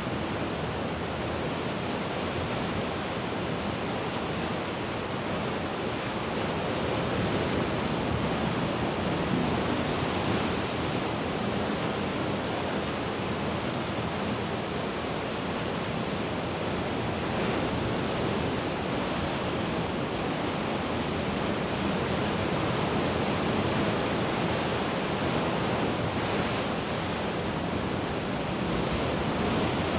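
Mediterranean sea waves washing steadily against the shore, a constant rush of surf swelling slightly louder every several seconds, with some wind on the microphone.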